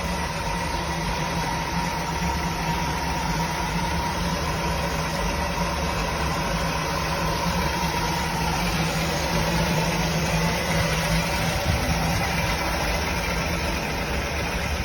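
A 1978 Chevrolet Nova's 250 cubic inch inline-six engine idling steadily at an even pitch, without revving.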